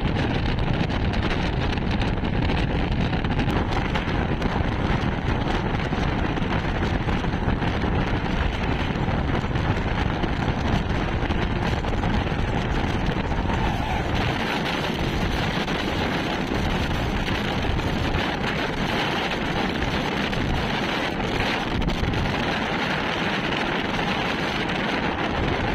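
Express train running at speed, heard from on board: a steady rush of wheel and coach noise with wind buffeting the microphone. About halfway through, the deep rumble eases a little and the hiss of the run comes forward.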